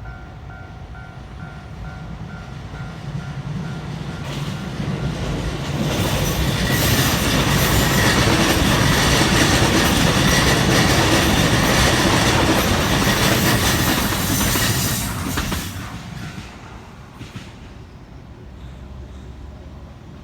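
Level-crossing warning bell ringing in quick repeated dings, about two to three a second. A train then passes over the crossing at speed, its rumble and wheel noise building over a few seconds, loud for about ten seconds, then fading away.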